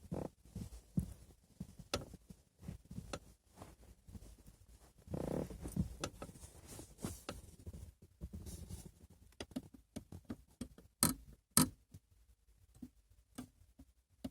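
Irregular clicks and knocks from a Toyota RAV4's front seat, over a low steady rumble. Two sharper, louder knocks come about eleven seconds in, half a second apart.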